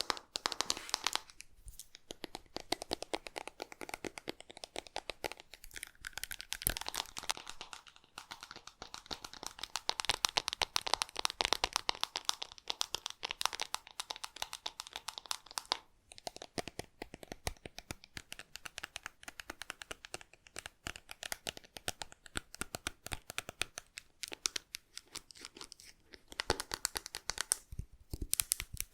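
Slime being squished and worked close to the microphone: dense, fast crackling and popping, broken by a few short pauses.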